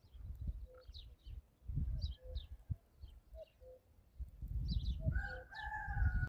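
Small birds chirping in short repeated notes, with a brief low call recurring every second or so. About five seconds in, a longer call of about a second comes in, fitting a rooster crowing, over a low rumble that grows toward the end.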